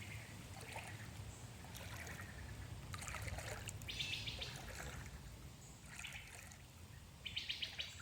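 Birds calling outdoors: short, high trilled calls, clearest about halfway through and again near the end, over the faint trickle of a stream.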